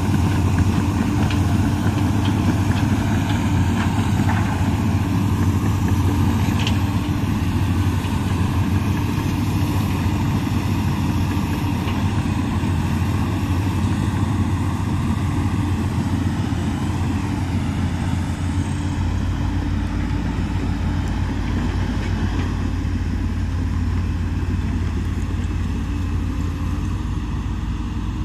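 Diesel engine of a Komatsu PC200 hydraulic excavator running steadily.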